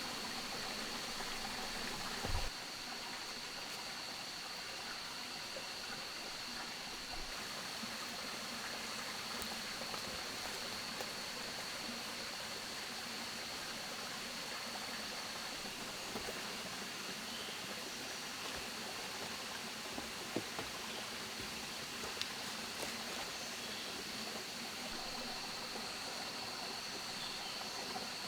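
Steady rushing of running water with a constant high-pitched whine over it; a brief knock about two seconds in and a few faint clicks later.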